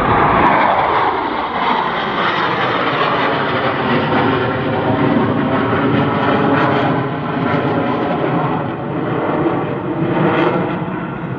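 Blue Angels F/A-18 jets passing by, loud jet engine noise falling in pitch just after the start as they go past, then a steady rushing jet noise.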